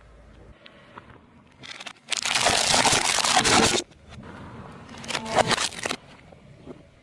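A car tyre rolling over and crushing objects. There is a loud crunching, crackling burst from about two seconds in to nearly four, then a second, quieter crunch around five seconds in.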